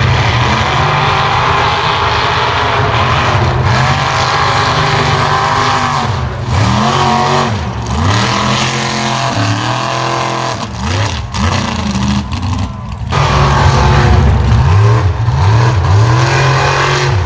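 A mega mud truck's engine running hard at high revs, then revved up and down again and again in quick surges, with a short drop near thirteen seconds before it pulls loud again.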